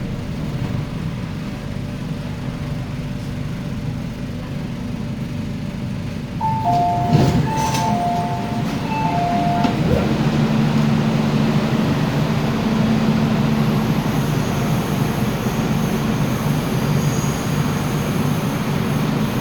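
An MTR Tung Chung Line K-train (Hyundai Rotem-built) standing at a station with its equipment humming steadily. About six seconds in, the door-closing warning sounds for about three seconds as alternating two-tone beeps, a knock marks the doors shutting, and then the train's running hum grows louder and steady as it pulls away.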